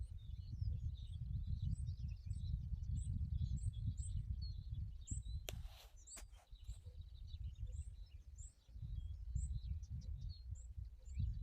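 Small birds chirping repeatedly in short high notes over a low, gusty rumble of wind on the microphone. A couple of sharp clicks come about halfway through.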